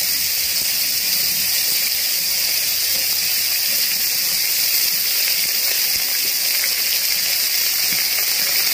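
Freshly added shredded ash gourd sizzling in hot mustard oil in a kadai, a steady even hiss.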